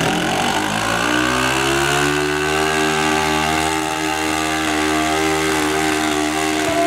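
Modified pulling tractor's engine running loud, its pitch climbing over the first two to three seconds as it revs up, then holding at high revs.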